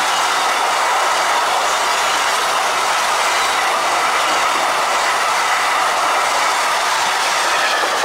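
Container flat wagons of an intermodal freight train rolling past close by: a steady, even noise of steel wheels running on the rails.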